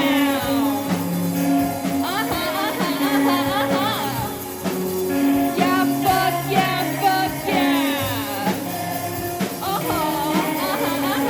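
A rock band playing live with a singer, heavy on held bass notes and sung lines that slide in pitch.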